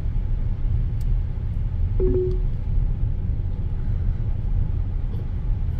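Steady low rumble of a car's engine and tyres heard from inside the moving cabin, with one short tone about two seconds in.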